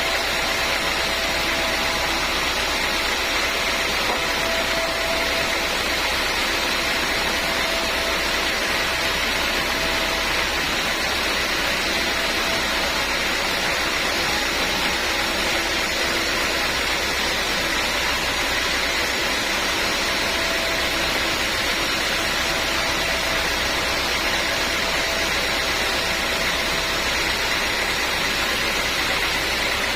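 Sawmill machinery running steadily: an even mechanical noise with a faint steady whine, holding one level throughout.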